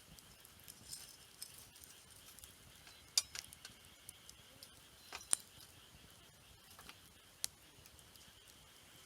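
Wood campfire crackling: irregular sharp pops and snaps, the loudest about three, five and seven seconds in.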